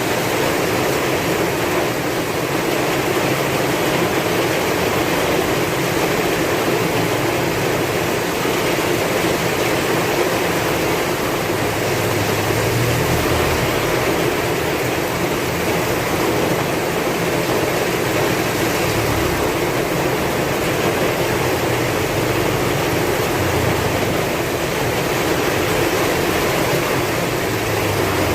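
Heavy rain falling steadily, with a low wind rumble that swells and fades a few times underneath.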